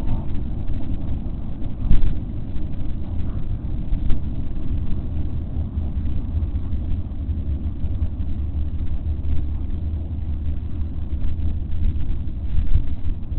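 Steady low outdoor rumble, with a brief thump about two seconds in.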